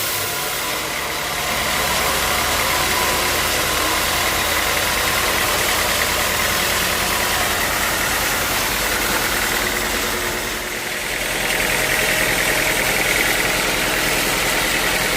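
Engine-driven sawmill running steadily, with a continuous mechanical drone and a steady whine. The sound dips briefly about ten seconds in, then picks back up.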